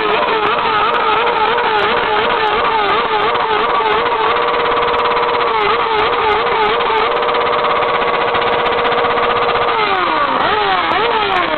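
Motorcycle engine running at high revs, its pitch wavering up and down, then held steady for a few seconds before falling away near the end as the throttle closes.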